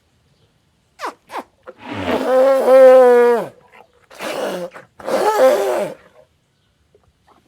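Elephant trumpeting: two brief high squeaks, then a long call of about a second and a half that falls in pitch at its end, followed by two shorter, rougher calls.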